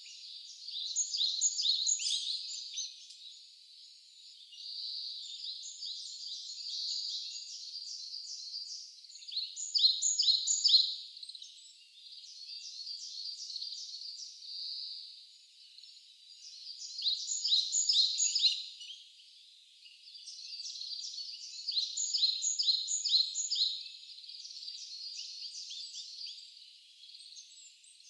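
Wild birds singing in the forest: bouts of rapid, high, repeated chirps, each a few seconds long, with short quieter pauses between.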